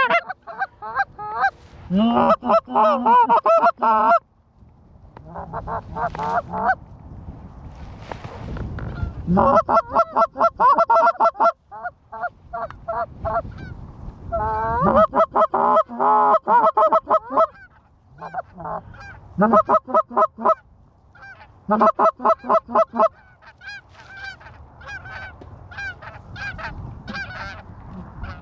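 Goose calls blown hard and fast: bursts of rapid honks and clucks, several a second, broken by short pauses, calling a circling flock of Canada geese back in. A low wind rumble fills the gaps between bursts.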